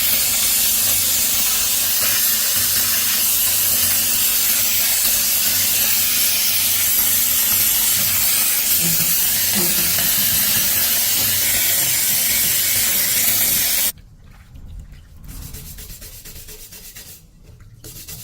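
Loud, steady spraying hiss, like compressed air or a pressurised spray jet working on a part. It cuts off suddenly near the end, leaving a much quieter, faster, evenly pulsing sound.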